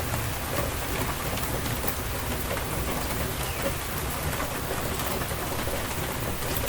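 Steady rain falling on surfaces, an even hiss with scattered individual drops ticking and a low rumble underneath.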